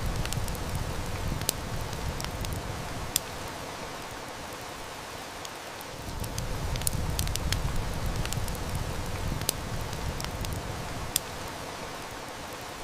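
Heavy rain falling steadily, with a wood fire crackling and snapping in sharp, irregular pops over it. A low rumble comes and goes beneath the rain.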